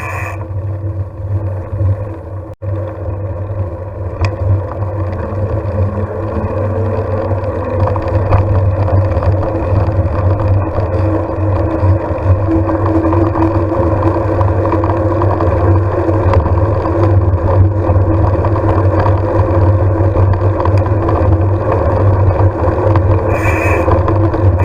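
Engine running steadily with a low hum, getting somewhat louder over the first few seconds.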